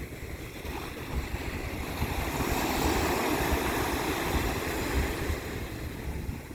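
Water washing and wind rumbling on the microphone. The wash swells louder for a few seconds in the middle, then eases.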